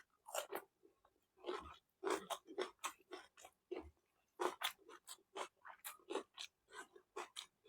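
Close-miked chewing and mouth sounds of a person eating: an irregular run of quick wet smacks and clicks, a few a second.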